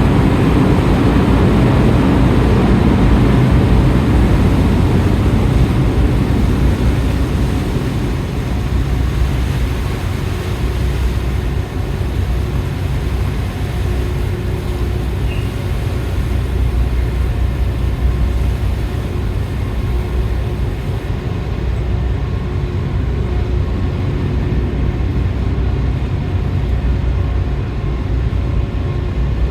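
Docked car ferry's engines and machinery running with a steady low drone, under wind and rain noise that is strongest in the first few seconds and then eases.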